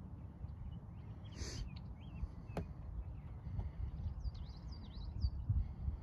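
Small birds chirping over and over in the marsh, over a low uneven rumble on the microphone; a short hiss about one and a half seconds in and a single click a second later.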